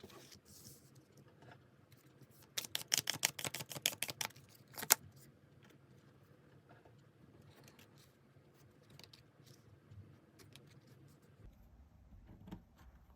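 Tarot cards being shuffled: a quick run of card clicks lasting under two seconds, then one sharp snap, with faint card-handling ticks afterwards.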